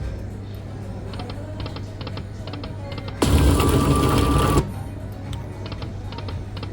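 Lightning Link Tiki Fire poker machine playing its reel-spin sounds over a steady hum and regular light clicks. Around the middle comes a louder burst of game sound effects lasting about a second and a half, then the spinning sounds carry on.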